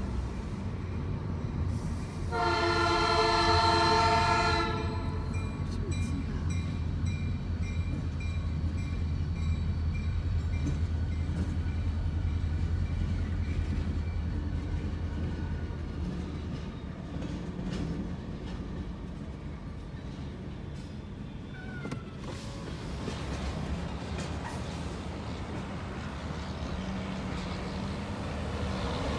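Diesel switching locomotive sounding its air horn: a blast that ends just as the sound begins, then a louder one of about two seconds a couple of seconds in, over the steady low drone of the locomotive's diesel engine, which eases after about 16 seconds.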